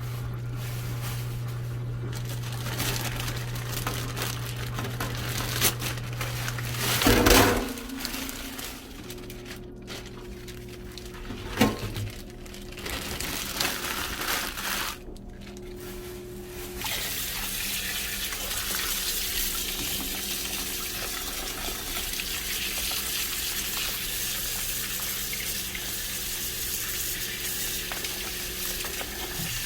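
A kitchen tap running steadily into a sink, starting about halfway through, after a few knocks and clatters over a low steady hum.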